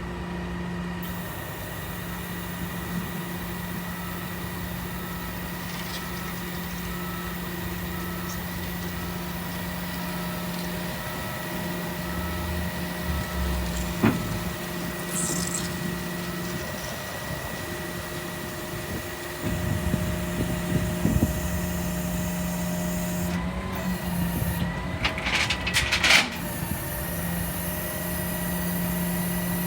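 A truck's powered tail and ramps closing up, the drive motor humming steadily and pausing a few times. There is a sharp clunk about halfway through and a rattling hiss near the end.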